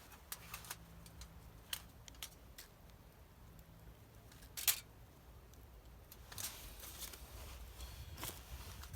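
Faint scattered small clicks and taps, the loudest about halfway through, with a low rumble building in the second half.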